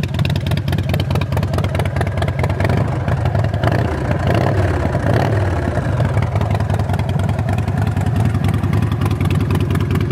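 Motorcycle V-twin, a 1380 cc Evolution engine breathing through Vance & Hines short-stack pipes, idling steadily. It is revved briefly about four seconds in, then settles back to idle.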